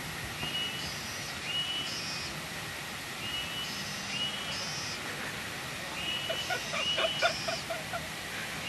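A bird calling over and over in short, high paired notes, roughly once a second, over a steady rushing hiss.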